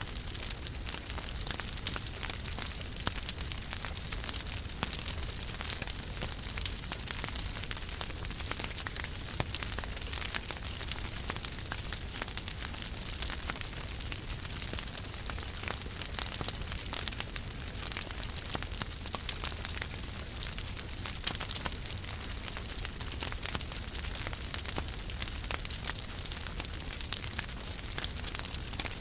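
Wood fire burning in a fireplace: a steady hiss with a low rumble, and constant crackling, with a few louder pops standing out.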